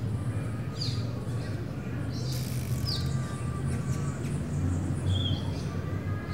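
A few short bird chirps, each a quick falling note, and a short whistled note near the end, over a steady low hum. A brief hiss comes about two and a half seconds in.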